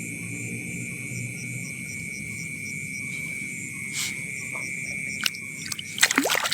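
Steady insect chorus of crickets trilling, with a constant high buzz and evenly pulsed chirps. A few sharp clicks come in the second half, and a short burst of loud sweeping noises near the end.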